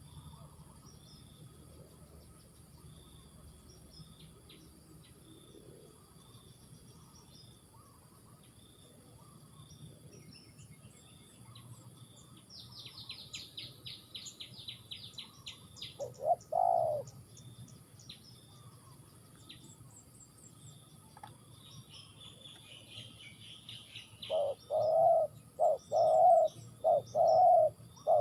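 Spotted dove cooing: one coo about two-thirds of the way through, then a run of repeated coos near the end. Before them comes a quick series of high small-bird chirps, over a faint steady insect drone.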